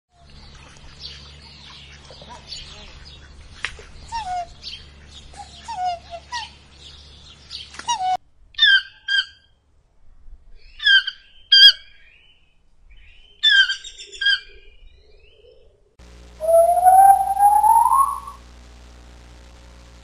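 Three animals calling in turn. First, swan cygnets peep rapidly with many short high calls. Then a keel-billed toucan gives short calls, mostly in pairs. Finally, a golden snub-nosed monkey gives one long call that rises in pitch, lasting about two seconds.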